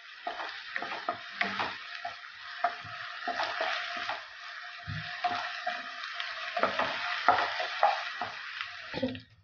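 Chopped onion and ginger-garlic paste sizzling in hot oil in a nonstick kadai, with a wooden spatula scraping and knocking against the pan as it is stirred. The sizzling cuts off suddenly near the end.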